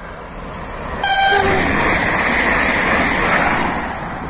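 Electric multiple-unit passenger train sounding a short horn toot about a second in, then passing close by at speed with loud rolling and air noise that fades near the end.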